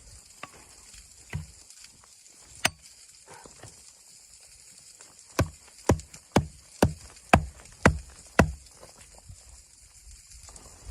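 A few scattered knocks, then seven sharp, loud knocks in a steady run about two a second, over a faint steady hiss.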